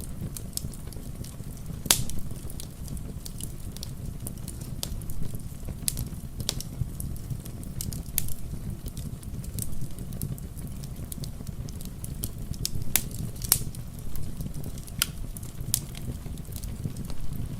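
Wood fire crackling in a fireplace: irregular sharp pops and snaps, the loudest about two seconds in, over a steady low rumble.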